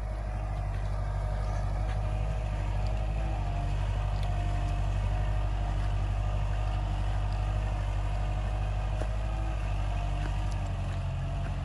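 Kubota L5018SP tractor's diesel engine running at a steady, even speed.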